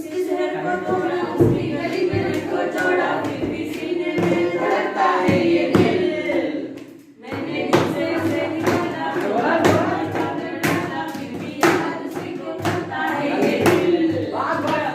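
A group of voices singing together, with sharp beats at about one a second, and a short break about seven seconds in.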